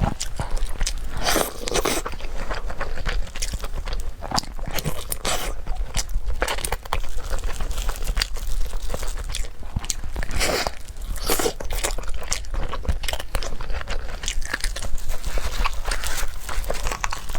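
Close-miked eating: a person biting and chewing cake, a steady run of irregular mouth clicks and soft crunches.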